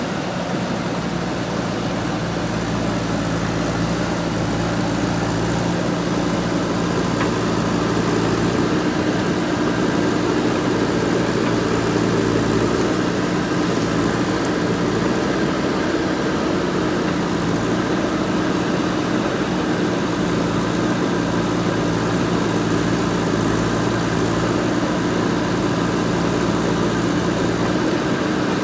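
JCB 3DX backhoe loader's diesel engine running steadily while it works, its note shifting slightly a few times.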